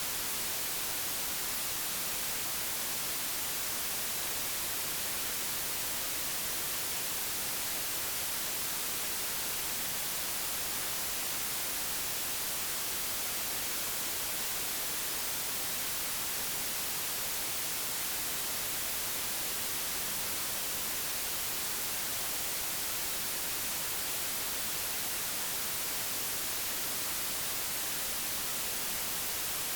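Digitally generated white noise: a steady, even hiss with no changes, brightest in the highs.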